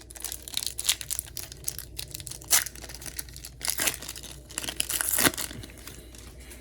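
Pokémon TCG booster pack's foil wrapper being torn open and crinkled in the hands. The crackling is irregular, with a few sharper, louder rips, and it dies down about five seconds in.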